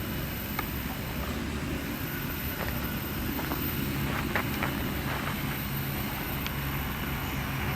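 Multirotor agricultural spraying drone with a 15-litre tank in flight: a steady rotor hum with a low drone, plus a few faint ticks.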